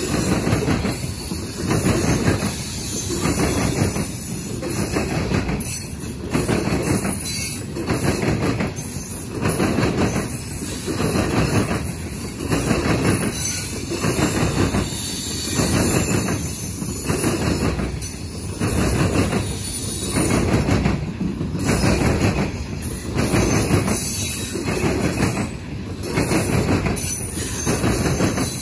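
Loaded coal hopper cars rolling past, their steel wheels clattering over the rail joints in a regular rhythm that swells about once a second, with a steady high hiss above it.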